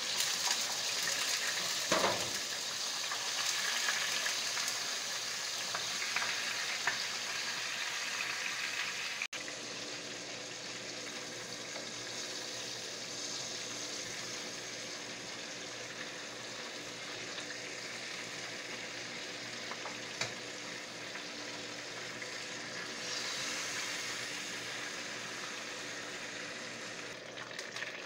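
Chicken thighs frying in hot oil in a pan, a steady sizzle that is loudest in the first several seconds as the pieces go in, with a single knock about two seconds in. It then settles to an even, slightly quieter fry as the skin browns.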